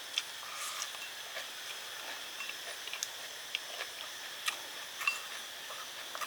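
Eating sounds: scattered small clicks and taps, a dozen or so, irregularly spaced, over a steady high-pitched hiss.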